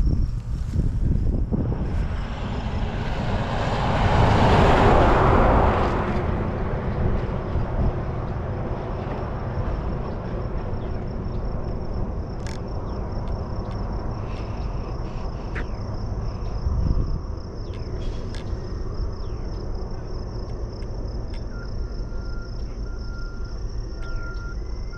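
A road vehicle passing by, rising to a peak about four to five seconds in and fading away, over low wind rumble on the microphone and a steady high drone of insects.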